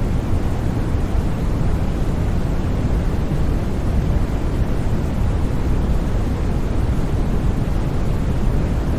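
Steady, unchanging white noise for sleep: an even hiss with no tones or sudden sounds, heavier in the bass than in the treble.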